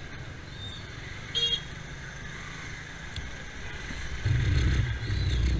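Slow road traffic: a brief high-pitched vehicle horn beep about a second and a half in, then a vehicle engine rumbling louder close by near the end.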